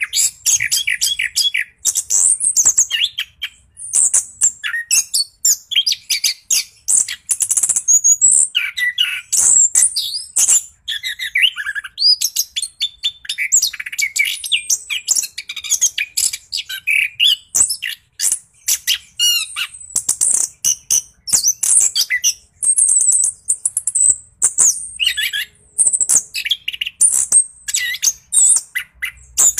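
Orange-headed thrush in full song, delivering a long, unbroken, rolling run of quick varied whistles, trills and chirps with hardly a pause.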